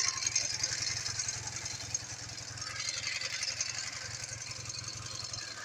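Ural motorcycle's freshly overhauled flat-twin engine running with a steady, fast throb. The throb stops just before the end.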